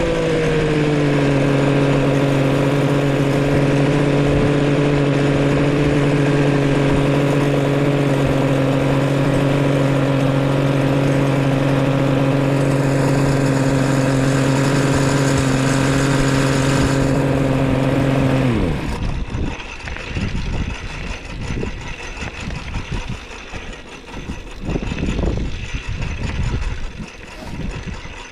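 A newly built three-cylinder two-stroke engine, being run in, settles from a higher note to a steady running note and holds it. About two-thirds of the way through its note drops away sharply as it is shut off, leaving irregular thumps and rustling.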